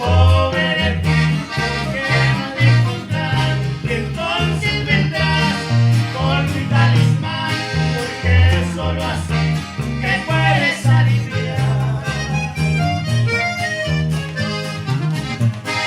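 Norteño band playing live: an accordion carries the melody over strummed guitar and a pulsing bass line.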